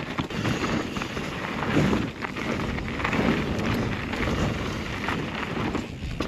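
Downhill mountain bike riding fast over a rough dirt trail: a continuous rumble of tyres on dirt and rocks, with a steady run of small knocks and rattles from the bike over the bumps.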